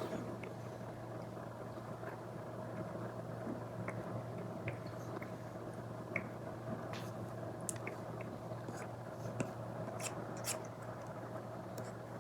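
Apple Pencil tip tapping and scratching on an iPad screen under a paper-like screen protector: scattered small clicks and short strokes, more of them in the second half, over a steady low hum.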